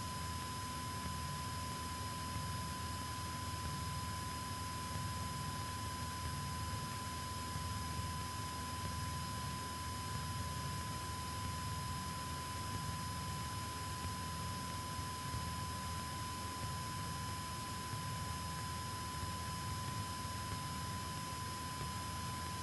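Steady, muffled drone of a Cessna 172K's engine in cruise, heard through the aircraft intercom feed, with a constant thin electrical whine over it.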